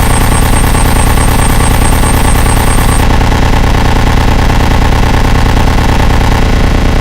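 Loud, dense electronic noise music: a thick drone of many steady tones over a rapid, even low pulsing that resembles an idling engine. A thin high-pitched whine over it cuts out about three seconds in.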